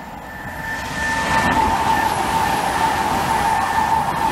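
A Great Western Railway Class 800-series Intercity Express Train passing at speed. A rush of wheel-on-rail noise swells as it arrives about a second in, then holds steady, with a high whine running through it.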